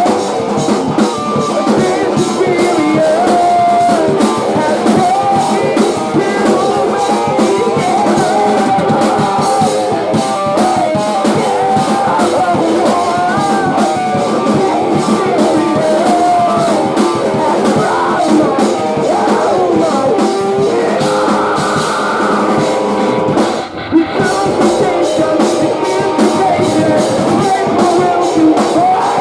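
Live post-hardcore band playing: distorted guitars, drum kit and sung vocals through a small venue's PA, with a brief drop and a sharp hit about three-quarters of the way through.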